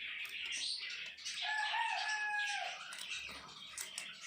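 A rooster crowing once, a held call lasting just over a second that drops off at its end, over faint background birdsong.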